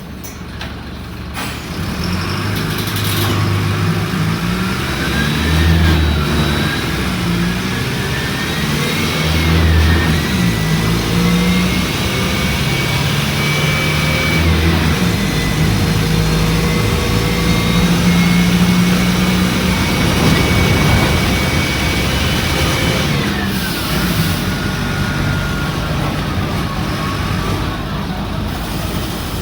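Mercedes-Benz OF-1722M bus engine pulling away and running through the gears, its pitch climbing and dropping several times, with a high whine that rises and falls along with it.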